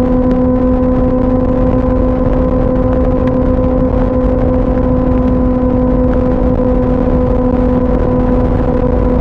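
2004 Yamaha R6's 600 cc inline-four engine pulling at a steady high rpm in highway cruise, one even, unchanging note, over a loud low rush of wind noise.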